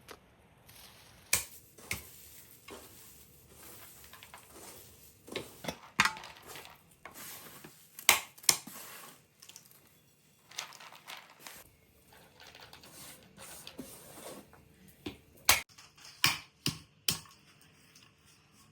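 Irregular sharp knocks and clicks, a dozen or more spread unevenly, the loudest about eight seconds in and a cluster near the end.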